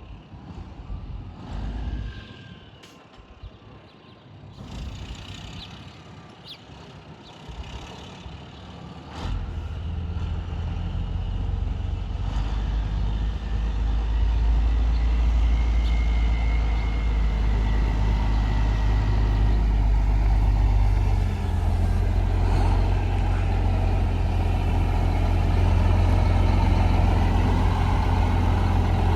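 1996 Mack CH613 semi truck's diesel engine, quiet at first apart from a few knocks, then starting up about a third of the way in and running with a steady low drone that grows louder a few seconds later.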